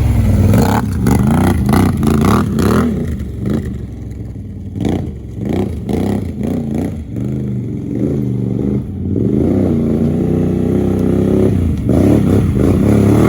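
A vehicle engine revving, its pitch rising and falling again and again, briefly quieter about four seconds in.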